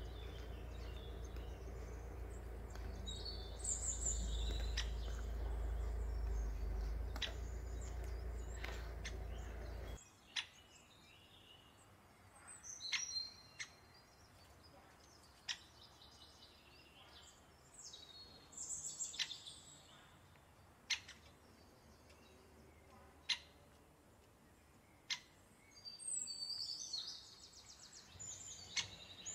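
Small birds chirping in short groups several times, over a low rumble of background noise that stops suddenly about ten seconds in. Sharp single clicks fall in between the chirps.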